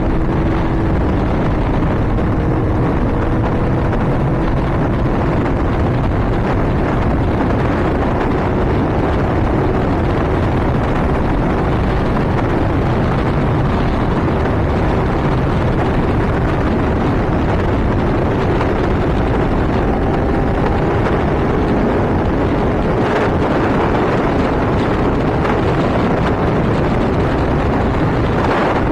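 Honda CBR600RR's inline-four engine running at high revs at speed, its note climbing slowly, under a loud steady rush of wind over the microphone.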